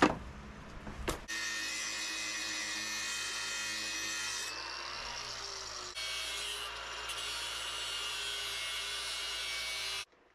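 Electric grinder running with steel being ground against it, a steady hard-edged whine carrying several held tones. It starts about a second in, changes pitch twice midway and cuts off sharply near the end.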